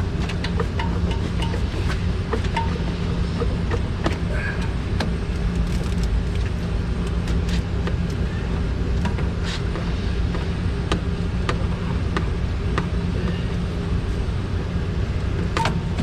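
Steady low mechanical hum, like an engine or machine running, with scattered light metallic clicks and taps from hand tools.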